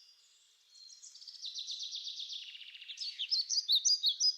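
Birds chirping in quick, high notes, starting about a second in and growing busier and louder near the end.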